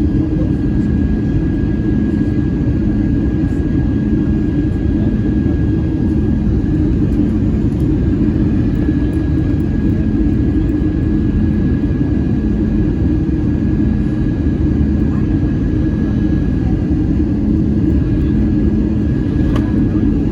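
Steady engine and airflow rumble of an Airbus A321-200 airliner heard inside the cabin, with a thin steady whine above it.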